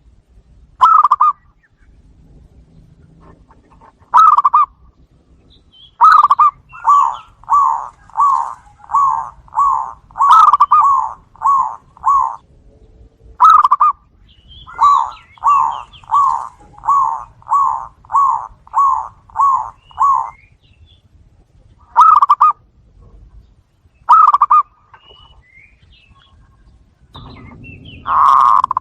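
Zebra doves cooing. Single coos are followed by two long runs of quick cooing notes, about two a second, then single coos again, the last one the loudest.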